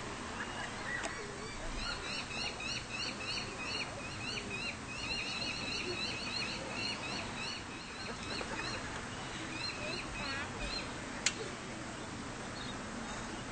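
A bird chirping in a quick, even series of short calls for several seconds, over steady outdoor background noise. A single sharp click comes near the end.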